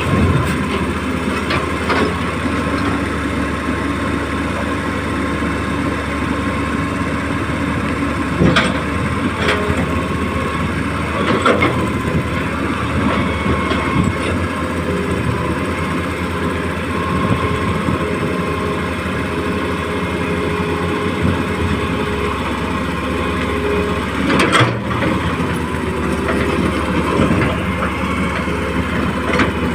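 Radio-controlled excavator at work: a steady mechanical drone with a whine running underneath, broken by a few sharp knocks at scattered moments.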